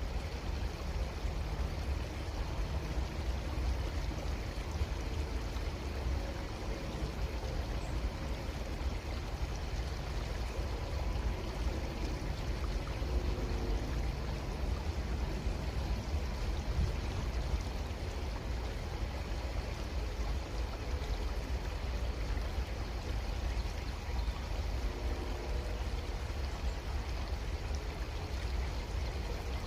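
Creek water flowing steadily, an even, unbroken rush of running water.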